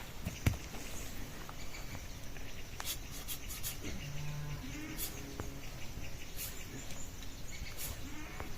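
Livestock calling now and then: a short low call about 4 seconds in and another shortly after, with a few sharp clicks over a steady outdoor background.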